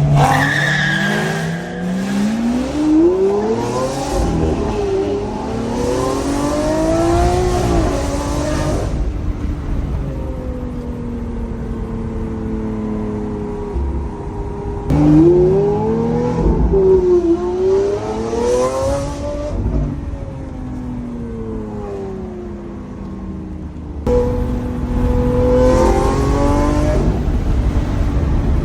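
Lamborghini Aventador SV's V12 engine through a Capristo exhaust, pulling hard three times: its pitch climbs through the revs, dropping at each upshift, with steadier cruising between the pulls.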